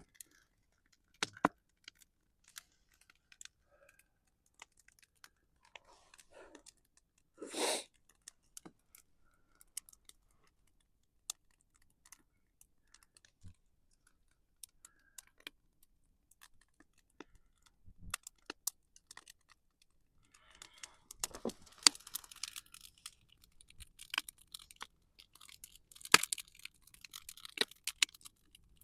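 Wood campfire crackling: sparse, irregular sharp pops and snaps that grow much busier in the last third. A short burst of noise comes about eight seconds in.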